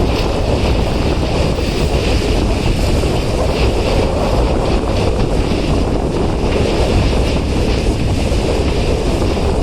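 Wind buffeting the microphone at a moving train's open window, over the steady rumble of the train running. It is loud and even, with no distinct clicks or tones.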